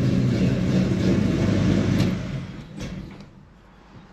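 1972 Chevrolet Chevelle SS V8 idling, then switched off about two and a half seconds in, its running dying away over the next second.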